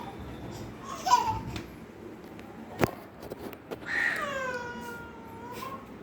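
Baby vocalising: a short babbling sound about a second in, a sharp knock near the middle, then one long whining cry that falls in pitch and holds for about two seconds.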